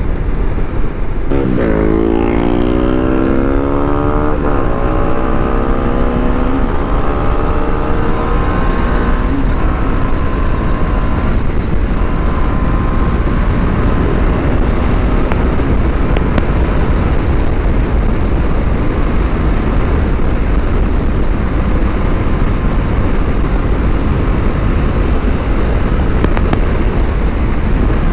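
BMW G310RR's single-cylinder engine accelerating, its pitch rising for several seconds with a gear change partway, then holding a steady cruise. Heavy wind rush at speed runs under it throughout.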